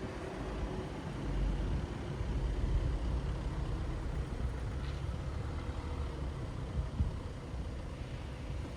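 Steady city road traffic: engines and tyres of passing cars and trucks making a continuous low rumble, with a short high squeak about five seconds in and a brief low thump near the end.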